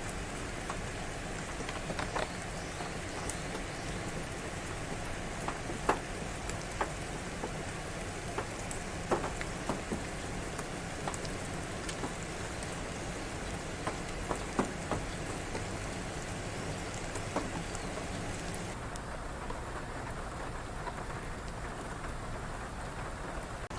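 Rain falling: a steady hiss with scattered sharp taps of drops landing close to the microphone.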